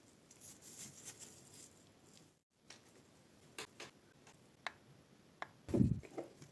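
Faint rubbing of sanding on the metal, then, after a cut, a handful of light, sharp metal clicks from the pipe wrench's parts being handled and fitted together, with one louder, duller knock near the end.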